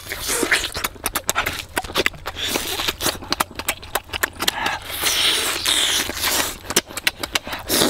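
Close-up eating sounds: a person chewing and biting into roasted chicken with wet lip smacks and clicks, irregular and close together, with a few short breaths between bites.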